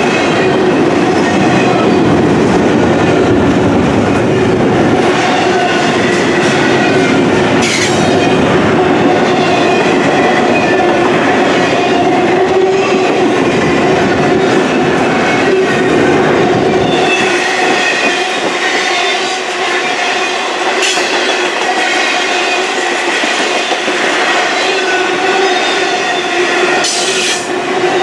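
Intermodal freight cars rolling past close by: a steady wheel-on-rail rumble with steady high squealing tones from the wheels and a few sharp clacks over the rail joints. The deep rumble thins about two-thirds of the way through.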